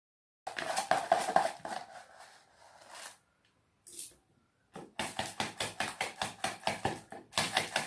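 Dry rice grains pouring into a metal electric kettle: a dense rattling patter that runs for about two and a half seconds, stops, and starts again a little under two seconds later.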